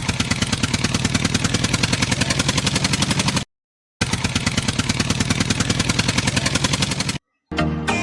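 A rapid, evenly pulsing engine-like sound effect, about ten or more beats a second. It cuts to dead silence twice, about three and a half seconds in and again near the end.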